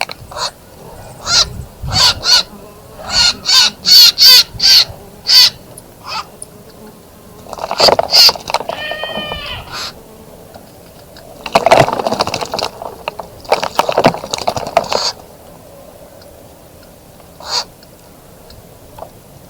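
Birds giving loud, harsh calls: a quick run of short calls through the first six seconds, then a few drawn-out calls and a busier stretch in the middle, and one more call near the end.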